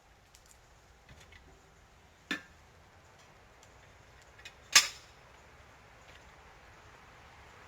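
Two sharp knocks about two and a half seconds apart, the second the louder, with a few faint clicks around them.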